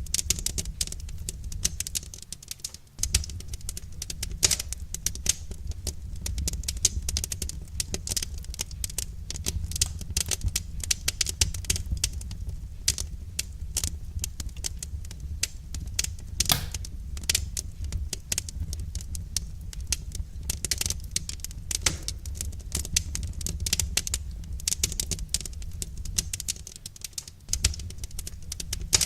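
Wood fire crackling, a dense run of small irregular pops and snaps over a steady low rumble.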